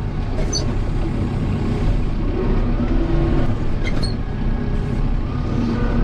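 Kubota M7060 tractor's four-cylinder diesel engine running steadily while pushing snow, with a couple of faint clicks about half a second and four seconds in.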